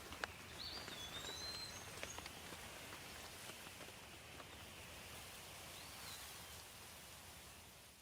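Light rain falling, a faint steady hiss with scattered drips, while a bird gives a wavering whistled call about half a second in and a shorter one near six seconds. The sound fades down at the very end.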